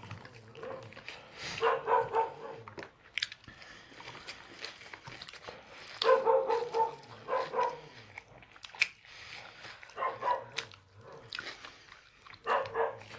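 A dog whining and yipping in four short high-pitched bouts, with scattered sharp clicks between them.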